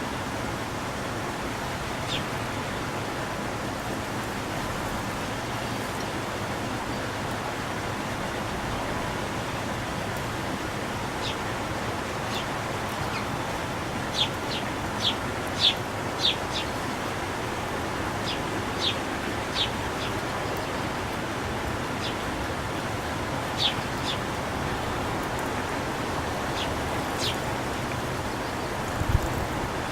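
Wild birds chirping in short, high single notes, with a quick run of about five chirps near the middle, over a steady background rush. A low thump near the end.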